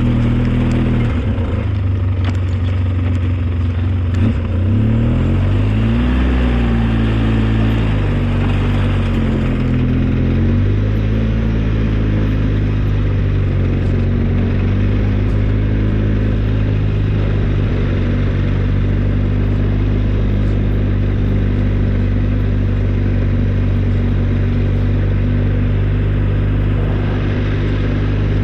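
Engine of an old snow-plowing vehicle running under load, its speed rising and falling a few times in the first ten seconds, then holding steady.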